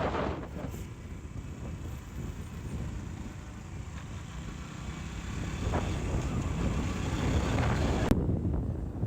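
KTM Duke 200 motorcycle on the move: wind rushing over the rider's microphone with the engine running underneath, growing louder past the middle.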